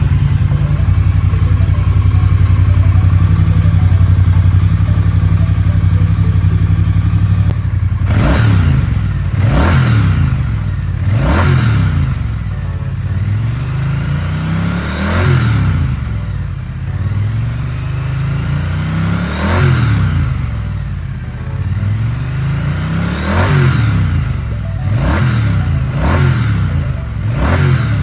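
2024 Triumph Bonneville T100's 900 cc parallel-twin engine on its stock mufflers, idling steadily just after start-up. From about eight seconds in it is blipped with the throttle about nine times, each rev rising and dropping back to idle; it revs up cleanly.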